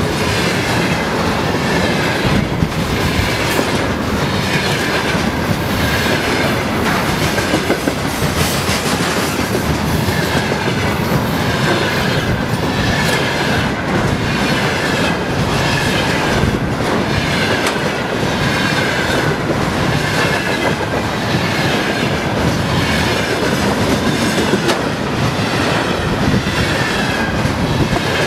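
Railway wagons rolling past a trackside microphone, their wheels clattering over the rail joints in a steady rhythm of about one beat a second, over a continuous rumble. A high, wavering ringing from the wheels runs through it.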